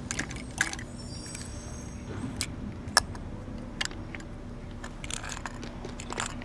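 Scattered light clicks and taps of small toy trucks and bins being handled and set down, the loudest about three seconds in, over a faint steady hum.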